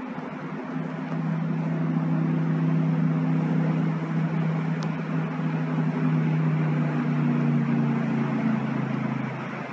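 An engine running steadily with a low hum, growing louder about a second in and easing off near the end.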